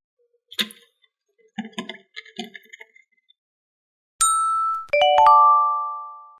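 A few soft taps, then a held chime tone and a quick rising run of bell-like ding notes that ring on and fade out: a cheerful chime sound effect.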